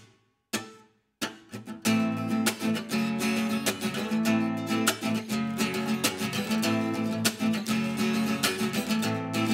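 Acoustic guitar strummed as a song's introduction: a couple of single strokes, then steady rhythmic chord strumming from about two seconds in.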